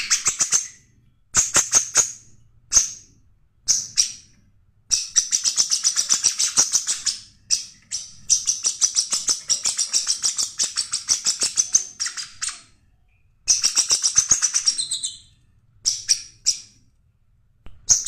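A songbird singing high, fast chattering trills, about ten notes a second, in phrases of one to four seconds broken by short pauses and a few brief note clusters.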